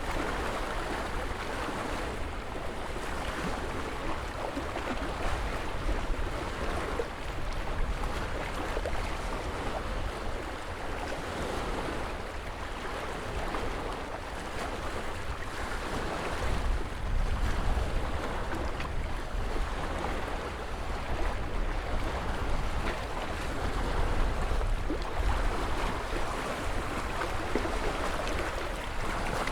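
Ocean waves breaking and washing ashore in a steady surf, with a low rumble that swells and eases as the waves come in.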